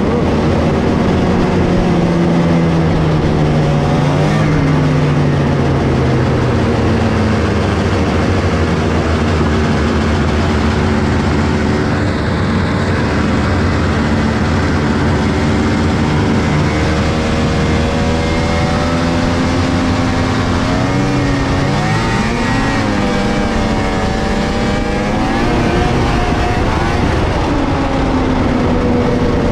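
1997 Polaris XCR 600 snowmobile's three-cylinder two-stroke engine running through its factory triple pipes. The engine speed rises and falls with the throttle as the sled is ridden: it winds down over the first several seconds, then revs up and back down again several times.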